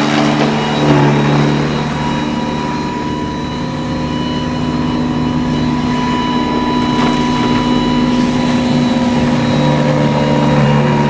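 Cordless battery-powered snow blower running steadily, its electric motor giving a steady hum with a thin high whine as it clears snow, easing off slightly a few seconds in.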